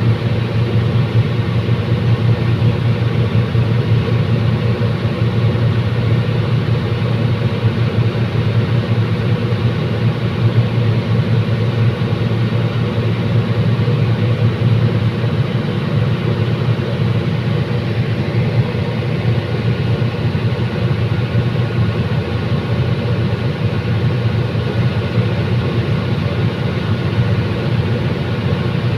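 Diesel engine of a commuter train railcar running with a steady low drone.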